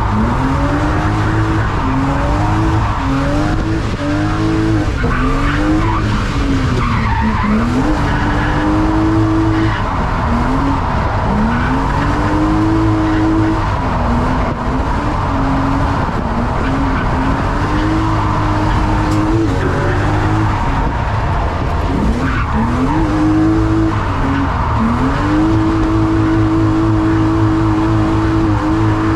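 Drift car engine revving hard, its pitch climbing and dropping every second or two as the throttle is worked through the slides, then held steady and high near the end.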